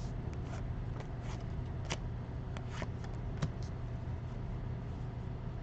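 Baseball trading cards handled and flipped through by hand: scattered light clicks and rustles of card against card, over a steady low hum.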